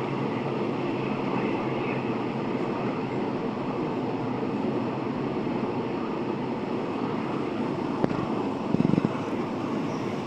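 Train running steadily, an even rumbling noise, with a sharp knock about eight seconds in and a short louder rattle just after it.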